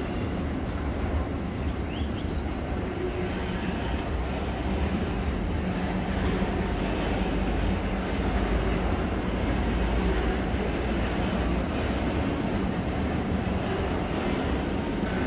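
Freight wagons loaded with steel coils rolling past: a steady low rumble of steel wheels on the rails.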